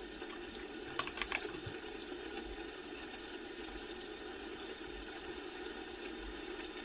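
A quick run of four or five computer keyboard keystrokes about a second in, over steady background noise.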